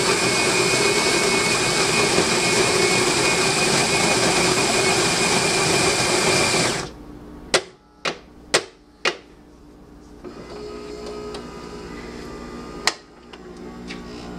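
Saeco Vienna Plus super-automatic espresso machine grinding a dose of beans in its built-in grinder: a loud, steady grinding that stops abruptly about seven seconds in. Four sharp clicks and knocks follow as the machine moves on to brewing, then a quieter hum builds, with one more click near the end.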